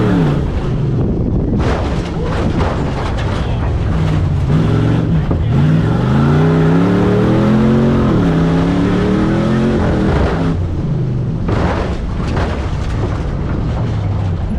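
Stock-class tough truck engine revving hard, its pitch rising and falling again and again as the throttle is worked over the course, with clattering knocks between the revs.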